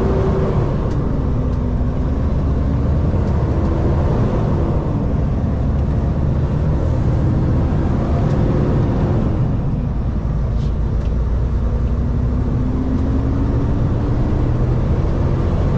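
Kenworth K200 road train's Cummins diesel engine pulling, heard from inside the cab: a heavy rumble whose pitch dips and rises several times as the revs change, then climbs steadily near the end.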